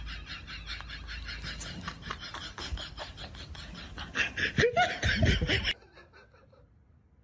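A person laughing in rapid, breathy pulses, getting louder about four and a half seconds in. The laughter cuts off suddenly near the end, leaving near silence.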